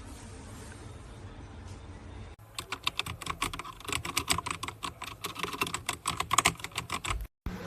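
Fast typing on the ZIYOU K3 full-size mechanical keyboard with red linear switches and ABS keycaps: a quick, uneven run of key clicks that starts about two seconds in and cuts off suddenly near the end.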